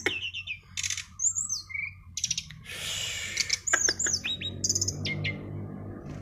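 A songbird singing a varied, fast song of sharp high chirps, harsh buzzy phrases and whistles that slide down in pitch, with a quick rattling trill near the end.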